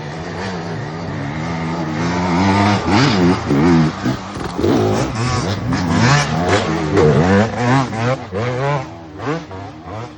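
Small dirt bike engine revving up and down repeatedly as the throttle is worked, getting louder about two seconds in and turning choppy near the end.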